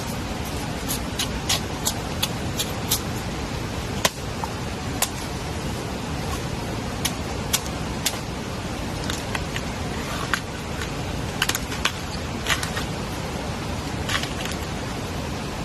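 Steady rain hiss with scattered sharp taps of drops landing at irregular intervals.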